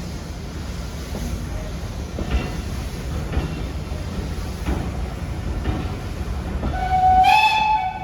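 A train running with a steady low rumble and a few light knocks. Near the end it sounds one single-note horn blast of about a second, which is the loudest sound.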